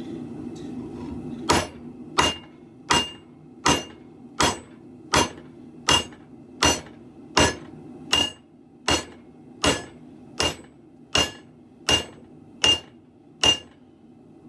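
Hand hammer striking steel on an anvil in an even rhythm, about seventeen blows roughly three-quarters of a second apart, each with a short metallic ring: forging a sword blade. The blows start about a second and a half in and stop shortly before the end, over a steady low hum.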